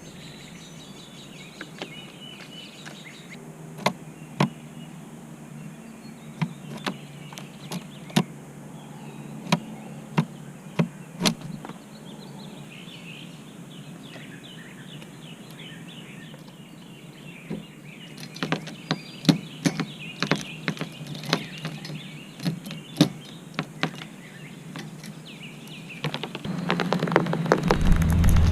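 A bird tapping on the car: sharp, irregular taps in two spells, with faint bird chirps. A louder low rumble comes in near the end.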